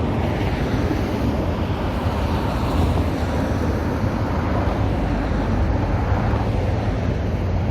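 Steady rumble of road traffic with a broad hiss that swells a little now and then as vehicles pass.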